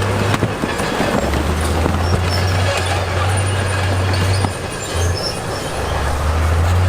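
Crawler bulldozer working: a heavy diesel engine drones, changing pitch a few times and easing off for a moment past the middle, while the steel tracks squeal and clank.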